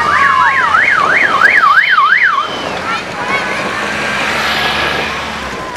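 Electronic siren yelping, a fast rise-and-fall of pitch about two and a half times a second, which stops about two and a half seconds in. A low steady hum and outdoor noise continue under and after it.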